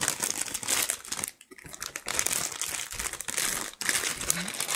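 Plastic anti-static bag crinkling as a motherboard is unpacked and handled, in several bursts of crackling.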